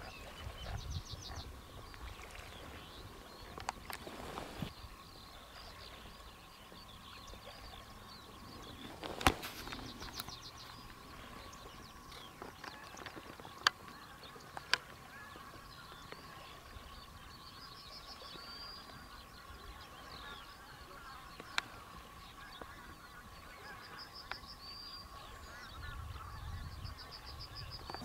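Outdoor ambience with birds calling: short, rapid high trills recur now and then over a steady thin tone, with a few sharp clicks.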